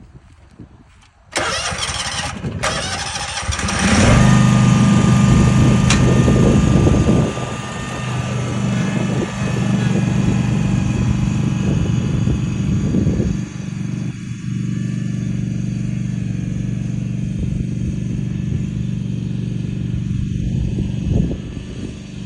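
Angle grinder starting up about a second in and grinding on the repaired fence, loudest for a few seconds, then running steadily under lighter load.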